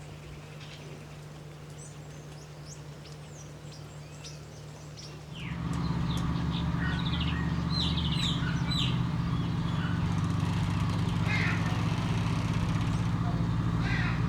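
Wild birds chirping with short, high calls. About five seconds in, a steady, low mechanical hum starts abruptly and becomes the loudest sound, continuing under the calls.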